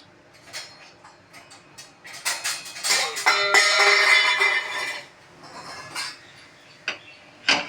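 Metal kitchen utensils and vessels clinking and clattering, with a loud rattling run of ringing clanks from about two to five seconds in and scattered lighter clicks around it.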